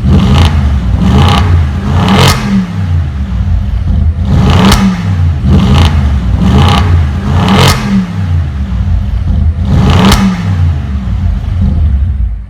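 Audi RS7's twin-turbo 4.0 V8 fitted with a Capristo exhaust, revved over and over, rising and falling in pitch. There is a sharp crack about eight times.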